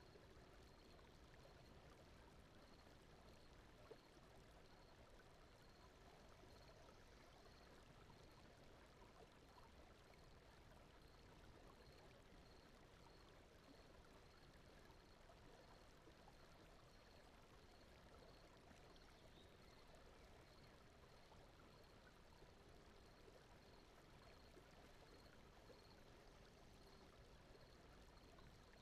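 Faint steady brown noise, a soft rushing hiss like distant flowing water, with a faint high regular chirp repeating a little under twice a second.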